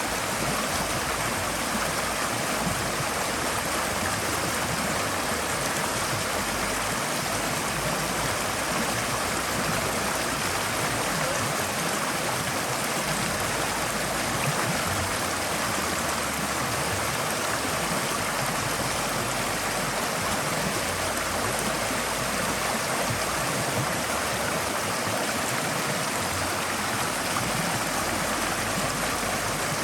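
Forest stream flowing over rocks: a steady rush of running water with a light gurgle, unchanging throughout.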